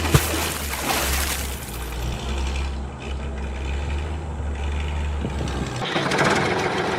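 A vehicle engine idling with a steady low note and a few knocks. Near the end the low note stops and a louder hiss-like noise takes over.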